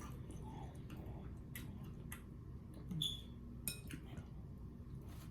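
A few scattered sharp clicks and cracks of a thick giant shrimp shell being peeled apart by hand, over a low steady background hum.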